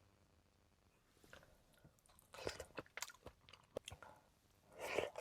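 Close-up chewing of a mouthful of warm peach cobbler with vanilla ice cream: soft, irregular wet mouth clicks and smacks starting about two seconds in, after a near-silent first second. A louder breathy sound comes near the end.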